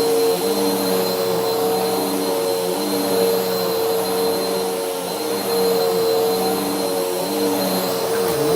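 Bissell vacuum cleaner running with its brushroll spinning: a steady motor hum with a thin high whine, dipping briefly near the end.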